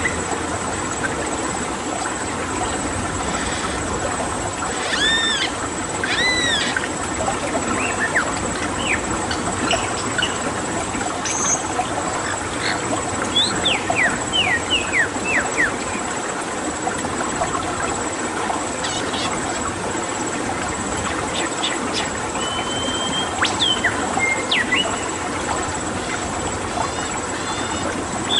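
Various wild birds calling over steady running water: two arching calls about five and six seconds in, a run of quick downward-sweeping calls midway, and a held whistle later.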